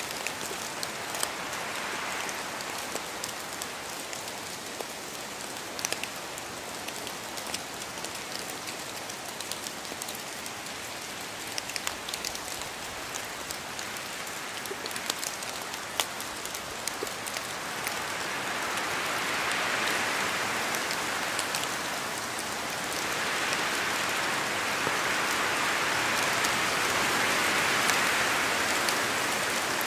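Steady rain falling, with scattered individual drops ticking sharply over it. The rain swells heavier about two-thirds of the way through and stays heavier near the end.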